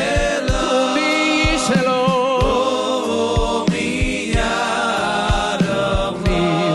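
Live music: a singer holding long notes with vibrato over band accompaniment, with a steady drum beat about twice a second.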